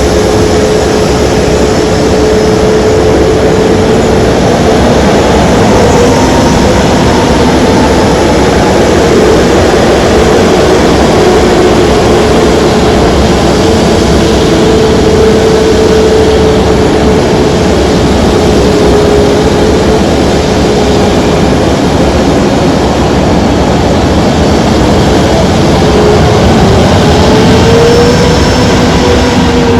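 Aircraft engine running: a loud, steady drone with a held whine that wavers slightly in pitch.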